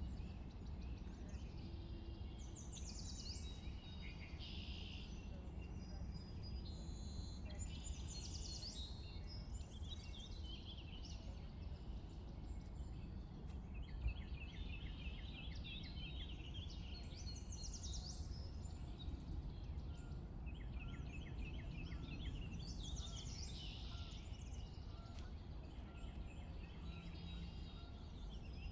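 Several songbirds singing in spring, their songs and rapid trills overlapping, over a steady low background rumble.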